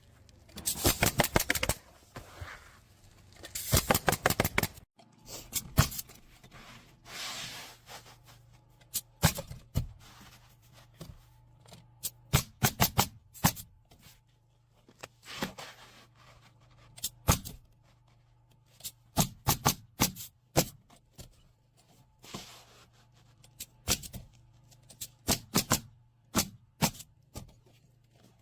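Irregular clusters of sharp clicks and knocks, some coming in quick runs, with a faint steady low hum underneath from about five seconds in.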